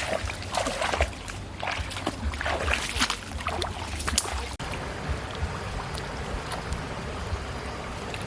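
Water splashing and sloshing in irregular strokes for about the first half. After a sudden break it gives way to a steady rush of water and wind noise.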